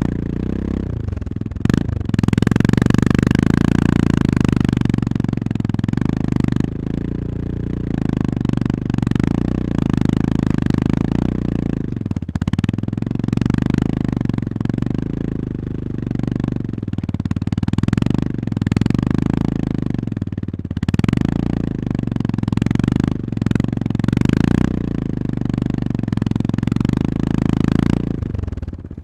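Honda GB350's air-cooled single-cylinder engine running under way, its note rising and falling with the throttle, with a few short knocks.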